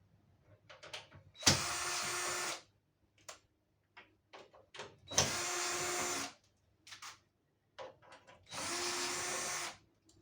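A cordless drill-driver runs in three short bursts of about a second each, as on screws of a tumble dryer's casing, with small clicks and knocks of handling between the bursts.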